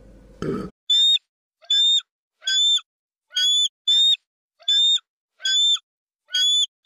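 Eagle calling: a short high call repeated about eight times at an even pace, each call alike. Faint chewing sounds come just before the first call.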